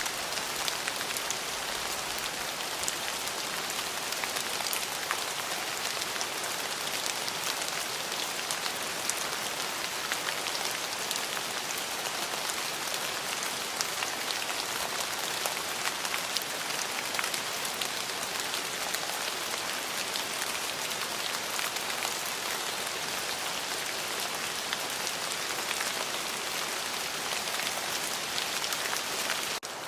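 Steady, heavy rain falling on a surface, a dense hiss of many individual drops pattering and crackling, with no thunder. It breaks off for a split second near the end.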